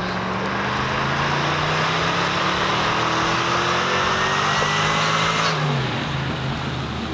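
A vehicle engine pulling hard under acceleration, its pitch climbing steadily for about five seconds, then dropping suddenly as the throttle is lifted.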